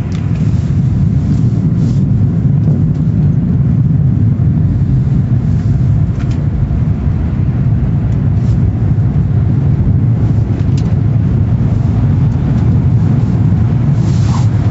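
Steady, loud low rumble of running machinery, with a few faint clicks over it.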